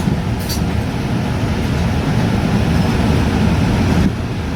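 Steady low rumble of an airliner cabin on the ground, with a brief click about half a second in.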